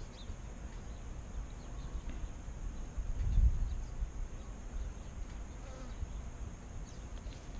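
Wind rumbling on the microphone, swelling about three seconds in, over a steady high-pitched drone that sounds like insects.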